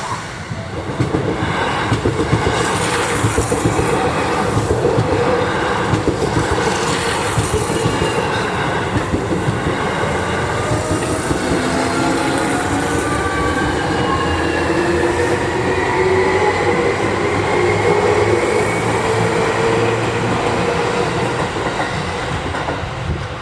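Seibu 40000 series electric train running on the track, its wheels clacking over rail joints, while the whine of its traction motors rises steadily in pitch as it gathers speed.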